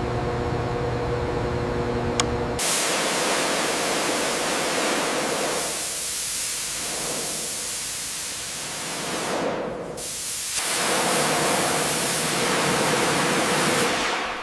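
A steady machine hum, then a click and a loud continuous hiss like compressed air or a spray jet, which dips twice and resumes before fading out at the end.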